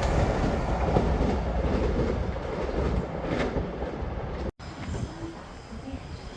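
A train running through the station without stopping, its rumble loud at first and then fading as it goes by. The sound cuts out completely for a moment about two thirds of the way through.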